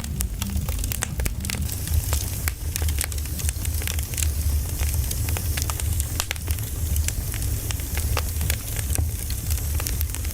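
Firewood burning, crackling with many irregular sharp pops over a steady low rumble.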